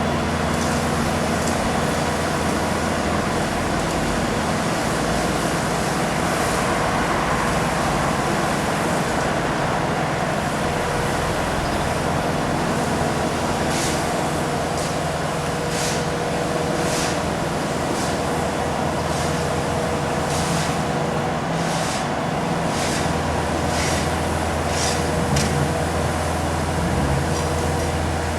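Bobcat skid steer diesel engine running steadily under work. From about halfway through, sharp clicks and scrapes come roughly once a second.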